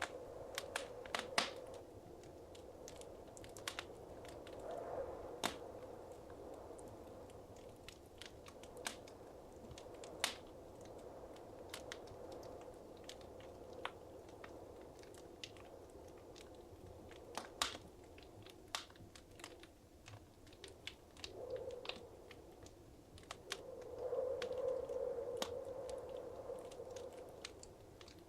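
Wood fire crackling in a fireplace: irregular sharp pops and snaps over a soft low hiss, with a brief surge of flame rushing about five seconds in and again for a couple of seconds near the end.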